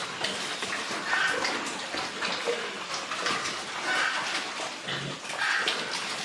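Water splashing and running, with pigs grunting now and then.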